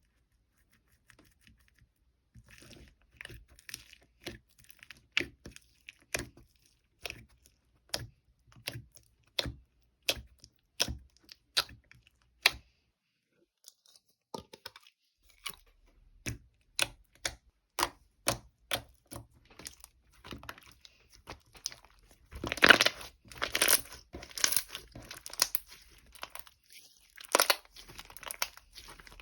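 Crunchy food chewed close to the microphone: a steady run of sharp crunches, about one to two a second, pausing briefly in the middle. Near the end it turns louder and denser, with crackling like a fresh bite or a crinkled wrapper.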